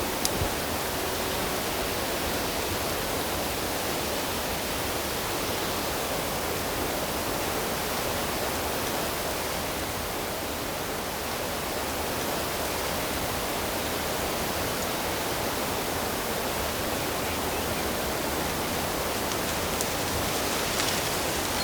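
Steady rushing of flowing water, a stream or small waterfall, with a few faint splashes or ticks near the end.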